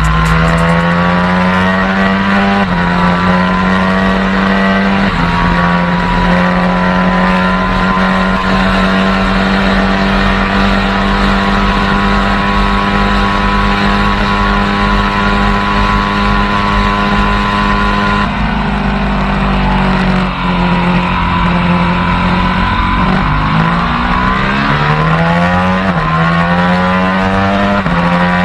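High-revving superbike engine under hard acceleration: it holds a steady high pitch for a long stretch, then climbs and drops back several times in the later part as it shifts up through the gears.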